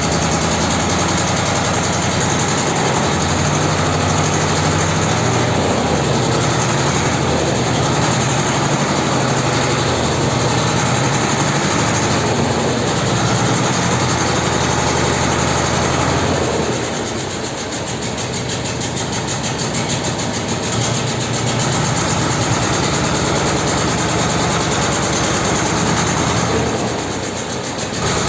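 Vladimirets T-25 tractor's two-cylinder air-cooled diesel running steadily just after a cold start. The sound drops briefly twice, about two-thirds of the way in and again near the end.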